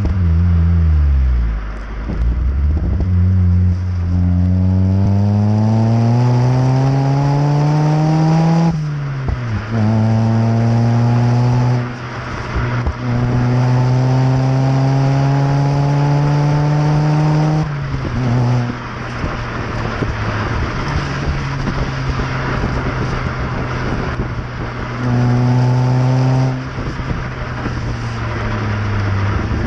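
Vauxhall Astra H 1.8 VVT petrol four-cylinder through a stainless cat-back exhaust, accelerating through the gears. The note rises steadily, drops sharply at each of two upshifts and climbs again. It then settles into steadier running, with one short blip of throttle near the end.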